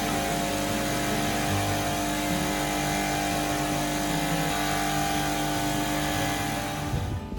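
A motor-driven machine running steadily with a constant hum, stopping about seven seconds in.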